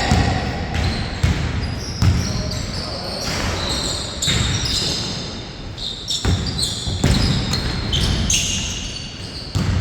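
A basketball bouncing irregularly on a court during play, with short high squeaks like sneakers on the floor.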